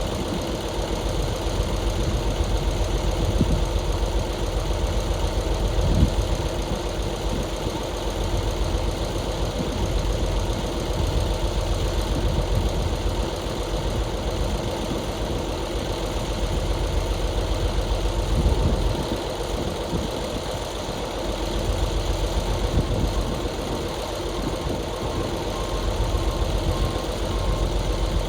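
Heavy diesel engine running steadily, with a couple of brief thumps, one about six seconds in and one about two-thirds of the way through.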